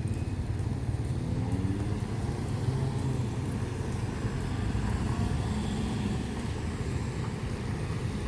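Street traffic: passing vehicle engines over a steady low rumble, with one engine rising in pitch as it speeds up about two seconds in.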